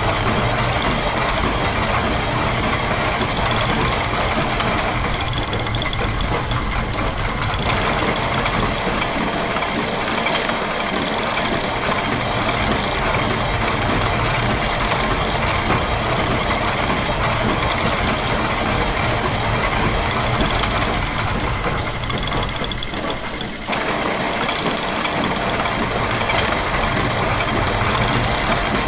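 Dense, continuous mix of looped factory machine sounds, with gears, ratchets, a press, clockwork and a sewing machine layered into an overlapping mechanical rhythm. Twice, the higher clatter briefly drops away and then comes back.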